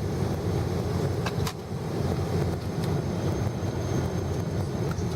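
Steady low rumble of a Boeing 777-300ER's cabin in flight: engine and airflow noise, with a couple of faint clicks about a second and a half in.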